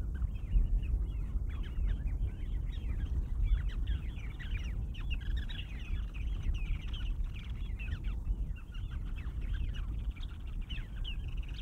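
Parasitic jaegers calling over and over, a dense run of short, bending nasal calls, during their distraction display. A steady low rumble sits underneath.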